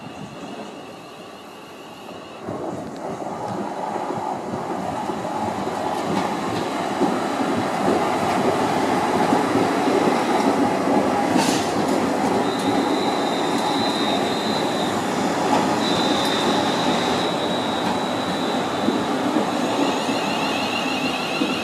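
Class 350 Desiro electric multiple unit rolling past at close range, its wheel and running noise building from about two seconds in to a loud, steady rush. There is one sharp clank about halfway through, and a high wheel squeal comes and goes twice soon after.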